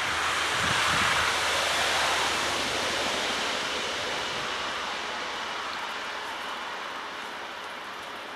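Steady rushing noise of an ICE high-speed train running along the snow-covered line, loudest about a second in and slowly fading, with a few dull low thumps early on.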